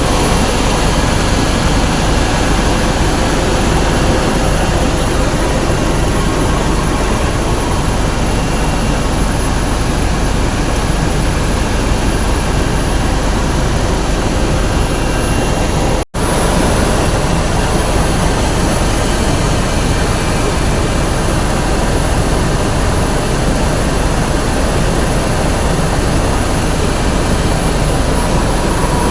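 Helicopter engine and rotor noise, loud and steady, as heard from inside the cabin. It cuts out for an instant about halfway through.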